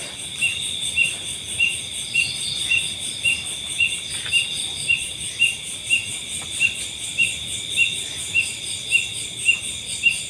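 Chorus of night insects: a steady high-pitched trill with a cricket-like chirp repeating evenly, about once every half second.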